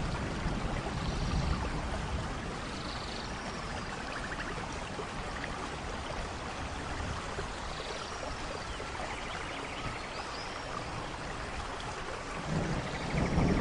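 Steady rainfall in a rainforest, with a few short high chirps and quick trills from small animals scattered through it. Near the end a low rumble of thunder builds.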